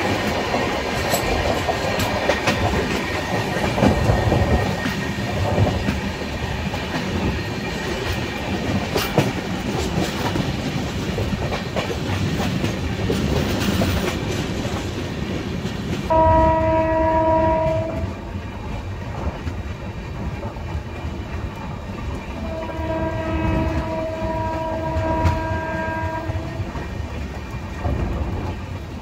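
Shatabdi Express passenger train running at speed, wheels clattering on the rails with wind noise past the coach side. About sixteen seconds in a train horn sounds for about two seconds, then again for about four seconds, and the running noise eases after the first blast.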